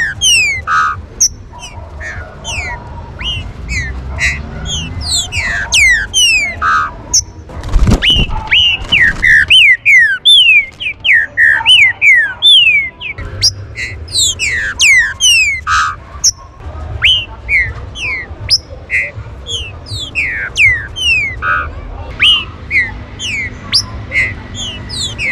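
Several green-winged saltators (trinca-ferro) calling and singing together: rapid, overlapping whistled notes that slide downward, over a low background rumble, with a brief low thump about eight seconds in.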